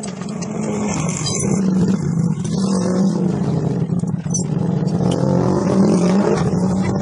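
A vehicle engine running with a low, slightly wavering pitch, growing louder over the first couple of seconds and then holding steady.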